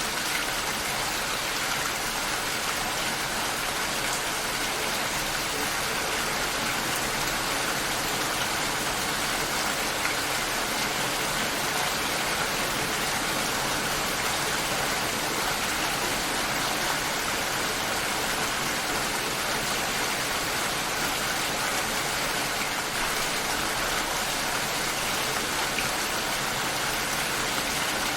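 Steady rain shower falling: an even, unbroken hiss of rain.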